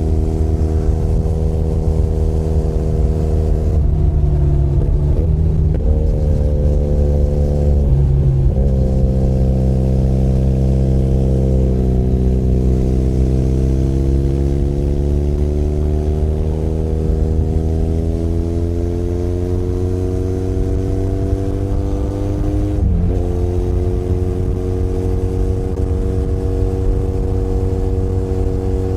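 Benelli Leoncino 500 Trail's 500 cc parallel-twin engine running under way, heard from the rider's position. The engine note dips sharply around four, eight and twenty-three seconds in, and climbs slowly in pitch between about twelve and twenty-two seconds.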